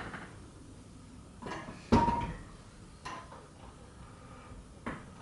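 A few sharp metal clanks and clinks of parts or tools being handled, the loudest about two seconds in with a short ringing note.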